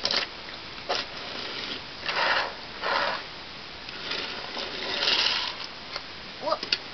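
Small die-cast toy trains and plastic track pieces being handled: a few sharp clicks and several short scraping, rubbing swishes as toys are slid along the track.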